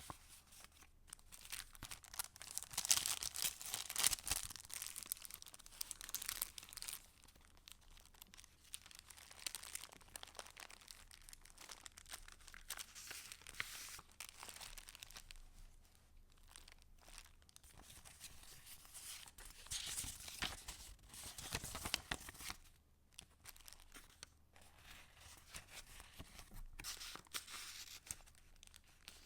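Paper pages of a handmade junk journal being handled and turned, rustling with small clicks and crackles. The paper noise is loudest from about three to seven seconds in and again around twenty to twenty-two seconds in.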